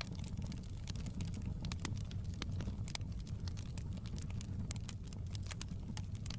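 Wood fire crackling and popping in a fireplace: many sharp, irregular pops over a steady low rumble of the burning fire.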